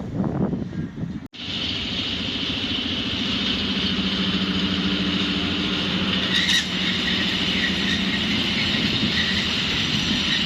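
SM42 diesel shunting locomotive's engine running steadily, with a short higher sound about six and a half seconds in. The first second or so holds other train noise that cuts off abruptly.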